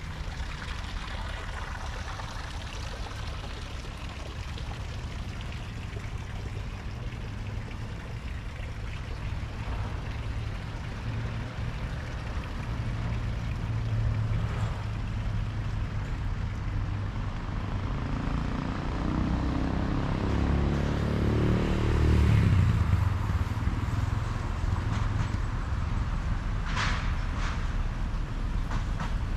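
Outdoor traffic rumble, with a motor vehicle's engine passing by, growing louder to a peak a little over two thirds of the way through and then fading. A few short high-pitched sounds follow near the end.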